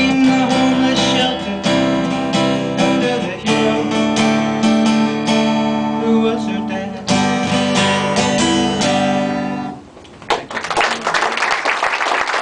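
Guitar strummed through the closing chords of a song, the last chord ringing and then stopping about ten seconds in. Audience applause starts right after.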